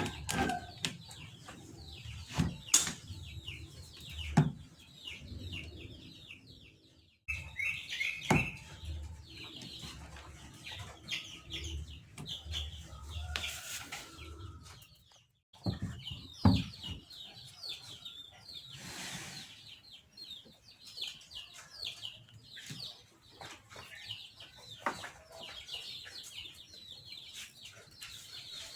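Chickens clucking and small birds chirping, with a few sharp knocks and taps throughout.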